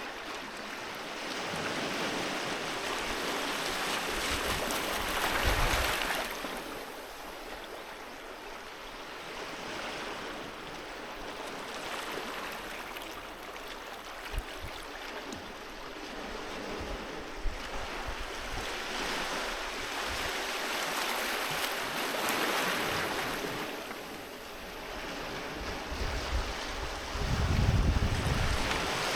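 Ocean waves breaking and washing on a beach, the surf swelling and easing off in slow surges, with the biggest wash near the end.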